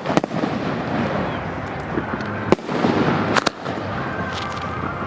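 Fireworks display: aerial shells bursting in sharp bangs, one near the start, one about two and a half seconds in and a quick pair just after, over a continuous crackle.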